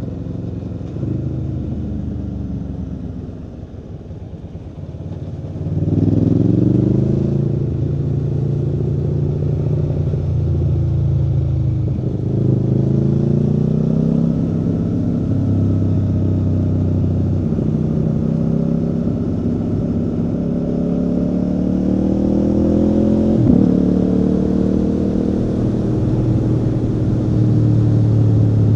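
Aprilia Tuono V4 motorcycle's V4 engine on the move. It is softer on a closed throttle for a few seconds, then opens up about six seconds in and pulls through repeated rising and falling revs, with one sharp crack late on.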